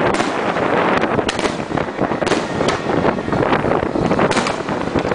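Aerial firework shells bursting one after another: a rapid string of sharp bangs and crackles over a continuous noisy rumble.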